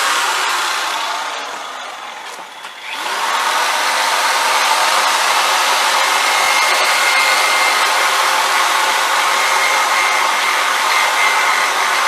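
Electric drill spinning a wire brush against a rusty old metal fishing reel, a steady motor whine with scratchy brushing. It winds down between about one and three seconds in, then starts up again and runs steadily.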